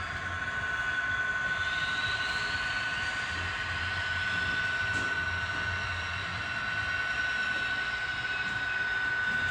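Model trains running on a model railway layout: a steady high whine over an even rolling noise, with a fainter higher tone rising about two seconds in.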